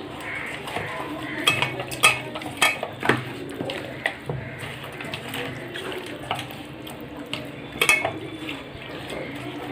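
Kitchen bowl and utensil sounds as spice-marinated chicken pieces are mixed in a bowl: irregular clinks, knocks and scrapes against the bowl, with a few sharper knocks in the first few seconds and again near the end.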